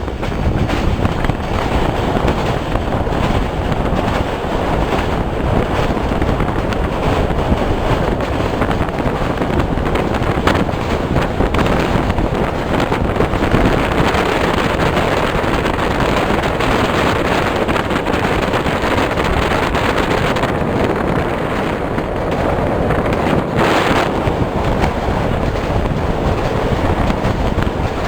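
A passenger train running at speed, heard as a steady rush of running noise with heavy wind buffeting the microphone.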